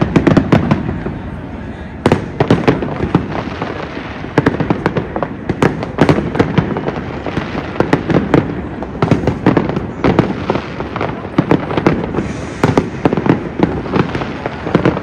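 Fireworks display: aerial shells bursting overhead in a dense, unbroken run of bangs and crackling.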